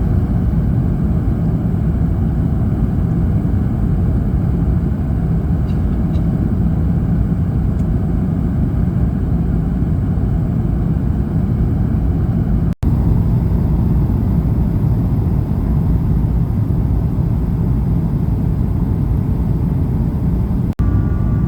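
Airbus A220-300 cabin noise in flight: a steady low roar of airflow and engines. It breaks off for an instant twice, about 13 and 21 seconds in.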